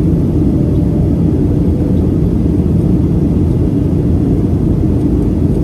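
Steady in-flight cabin noise of a Boeing 737-700: a deep, even drone of jet engines and air rushing past the fuselage, with a faint steady hum.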